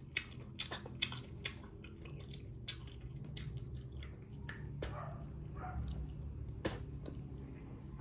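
Close-up chewing and biting of a native guava: irregular crisp crunches and mouth clicks, thicker at first and sparser later, with one sharp click late on.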